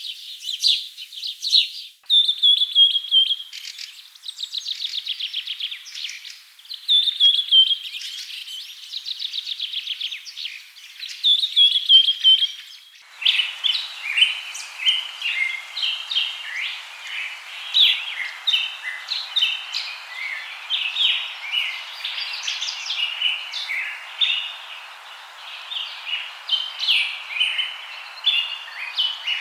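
Birds singing and chirping: first repeated trills and falling whistled phrases, then, after an abrupt change about 13 s in, a denser chorus of short chirps over a steady background hiss.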